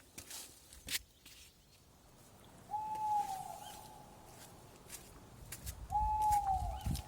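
A bird calling: two single drawn-out whistled notes, each dipping slightly in pitch, a little over three seconds apart, with a couple of sharp knocks about a second in.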